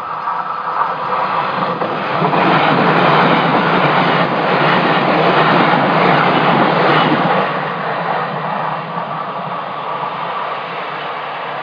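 JR Kyushu Sonic limited express electric train passing at speed. Its running noise swells about two seconds in, stays loudest for about five seconds, then eases off.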